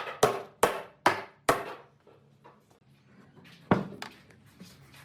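Sharp knocks on wood: four strikes about half a second apart, then after a pause of about two seconds a single louder one, each ringing briefly.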